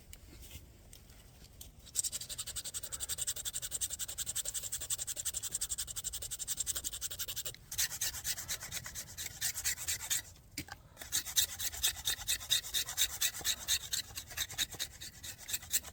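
A hazel bow stave being shaped: rapid, even scraping strokes on the wood, several a second, begin about two seconds in and stop briefly twice.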